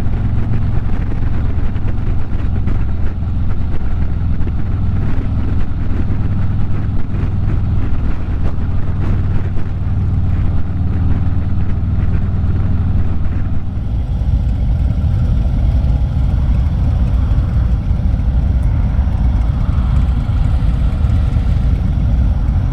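Harley-Davidson motorcycle's V-twin engine running steadily while riding. The engine note changes about 14 seconds in.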